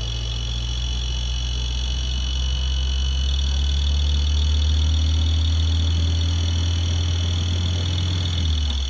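Off-road vehicle engine running steadily under load, growing a little louder toward the middle and easing off sharply near the end.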